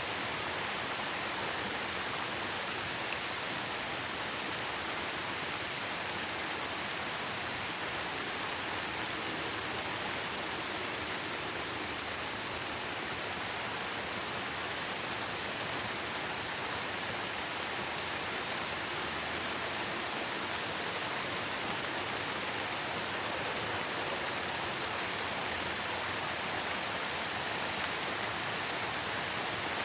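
Steady rain falling, an even hiss with no individual drops standing out.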